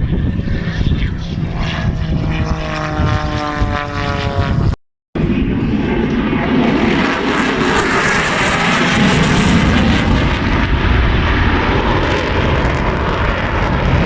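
Propeller airplane flying past, its engine tone falling steadily in pitch as it goes by. After a brief cut, a louder aircraft pass fills the rest with a broad engine roar.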